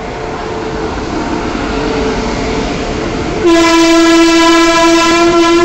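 Indian Railways electric locomotive and its train running along a platform with a steady rumble. About three and a half seconds in, a loud train horn sounds one steady note and holds it for about two seconds.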